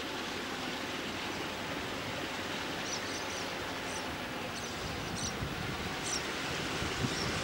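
Diesel locomotive hauling a freight train approaching and passing close by, its low rumble of engine and wheels growing louder near the end, over a steady hiss.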